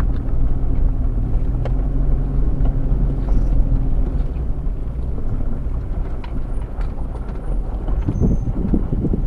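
Off-road vehicle engine running at a steady pitch with low rumble, the engine tone fading after about four seconds. A few low thumps come near the end.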